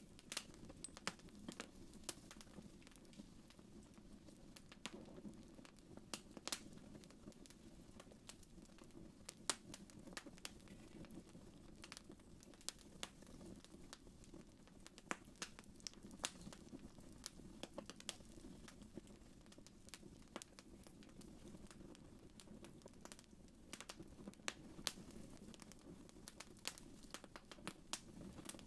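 Wood fire crackling in a fireplace: scattered sharp pops and snaps, several a second, over a soft low rumble of the burning fire.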